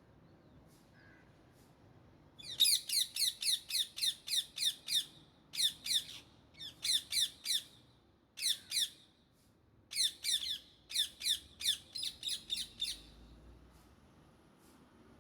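Indian ringneck parrot screeching: rapid strings of short, harsh calls, about four a second, in several runs broken by brief pauses, starting about two and a half seconds in.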